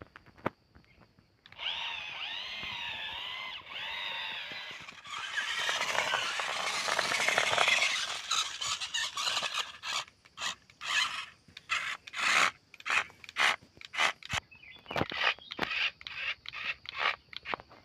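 A wavering high-pitched squeal, then a louder rasping scrape, then rhythmic scraping strokes about one and a half a second, like material being rubbed or sawn.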